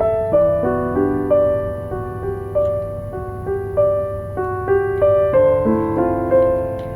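Background piano music: a slow, gentle melody of single struck notes, about one a second, each fading over sustained chords.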